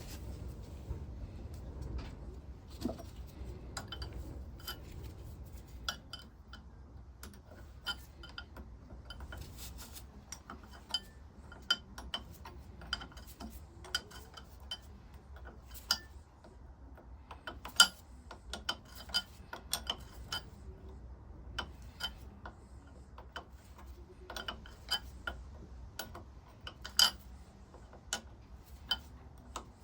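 Irregular clicks and clinks of small metal parts and hand tools being handled on a workbench, with a low steady rumble underneath.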